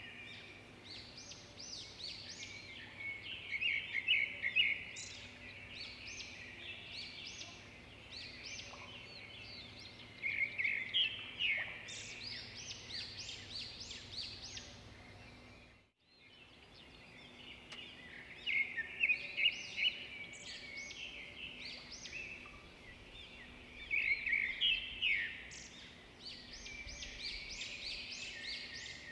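Birds chirping in repeated bursts of high, quick calls over a faint steady hum, cutting out briefly about halfway through and then starting again.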